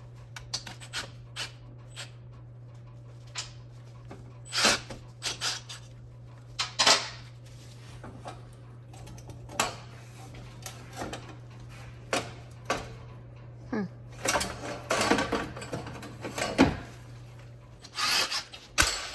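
A steady low hum with irregular knocks and metallic clanks of mechanic's work on the car, the clanks coming thicker near the end.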